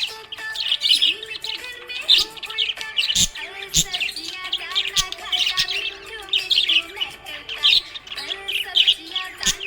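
Small pet parrots chirping and warbling in quick, overlapping high calls, with a few sharp clicks among them.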